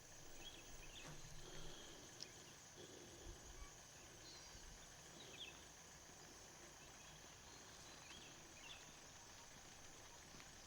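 Faint outdoor forest ambience: a steady high insect drone with a few short, scattered chirps.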